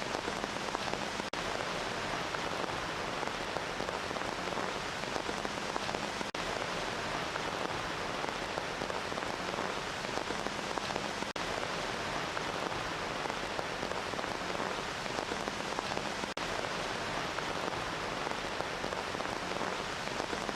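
Steady rain falling on a surface, an even hiss without any change in strength, broken by a brief dip about every five seconds.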